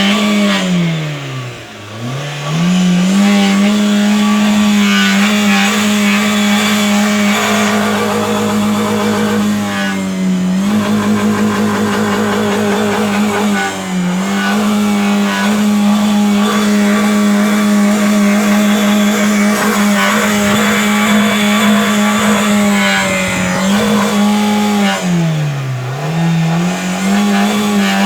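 Car engine revved hard with the accelerator pedal floored, held at high revs for several seconds at a time. The revs drop briefly a few times as the pedal is let up, then climb back.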